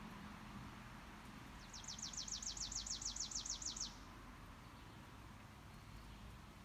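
A songbird's trill: a quick run of about fifteen high notes, roughly seven a second, each sliding down in pitch, lasting about two seconds, over faint outdoor background noise.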